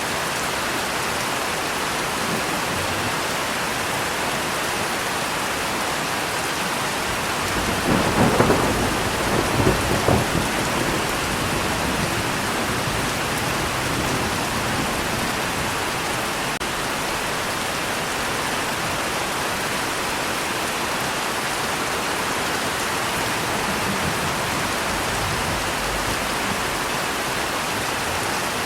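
Steady heavy rain falling, with a rumble of thunder about eight seconds in that swells twice over roughly three seconds before fading back into the rain.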